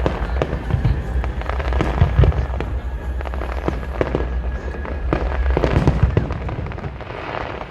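Fireworks going off in a rapid, irregular string of bangs and crackles, the loudest bangs about two seconds in and near six seconds.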